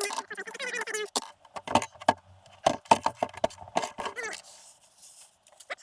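Metal tools and engine parts clinking and knocking, with a dog whining in short, rising-and-falling cries near the start and again about four seconds in.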